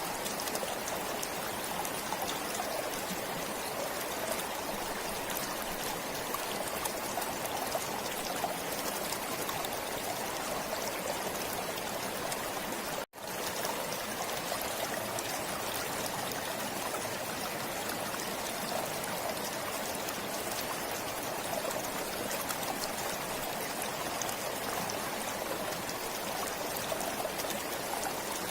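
A forest stream flowing and trickling steadily, with a momentary drop-out to silence about halfway through.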